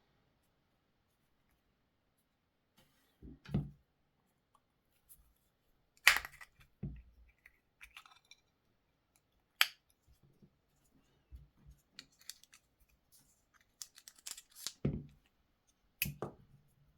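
Smart 451 key remote being handled and opened for a battery change: a few sharp plastic clicks and snaps, the loudest about six seconds in, with soft knocks and faint scrapes between them.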